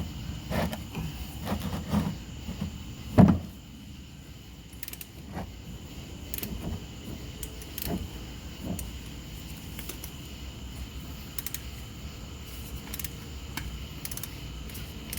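Metal tools clinking and knocking against the underside of a Porsche 911 (996) as a wrench is worked onto the tight oil filter housing. There is one sharp knock about three seconds in, then scattered lighter clicks.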